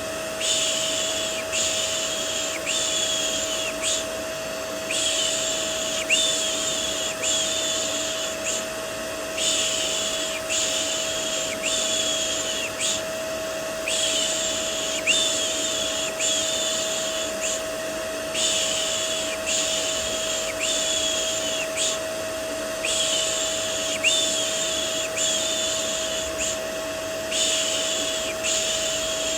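Vacuum cleaner running steadily with a constant hum, overlaid with rhythmic 'shh' shushing for soothing a baby. The shushes come in sets of four, about one a second, with a short pause after each set.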